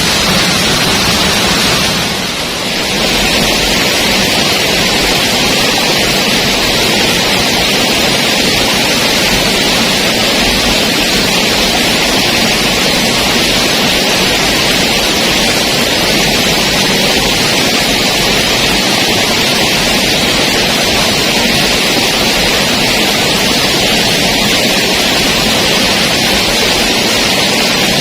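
Waterfall: loud, steady rushing of falling water, dipping briefly a little after two seconds in.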